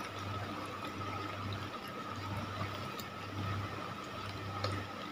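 Chewing of crunchy fried macaroni snacks, with a few faint crunches and clicks, over a steady low hum and a faint steady high tone.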